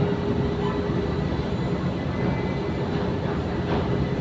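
A ship's engines running steadily as the ship manoeuvres to dock: a continuous low rumble with a steady hum over it.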